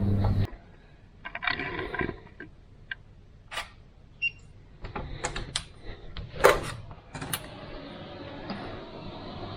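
Scattered clicks, knocks and small rattles of a person moving along and handling a room door, the sharpest knock about two thirds of the way in. A low steady hum takes over in the later part.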